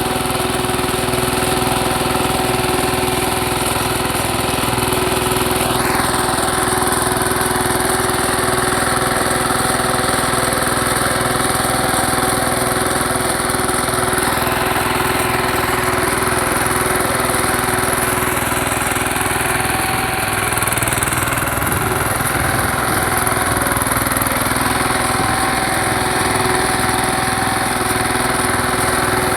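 Shrachi power tiller's engine running steadily at an even speed, with no change in pitch or level.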